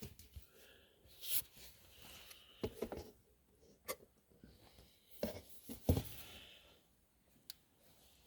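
Scattered light clicks and knocks, about half a dozen with quiet gaps between, from tools and parts being handled while an ATV's differential is serviced.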